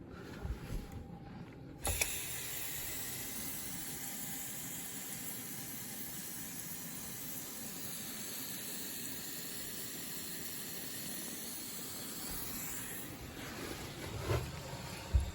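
A tap is turned on with a clunk about two seconds in and water runs steadily into the drain, a constant hiss of flowing water; a couple of knocks near the end.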